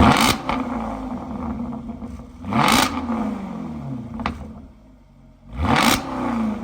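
Supercharged Jaguar V8 revved three times, each blip rising sharply to a loud peak and falling back to a rumbling idle, with a single sharp crack between the second and third revs.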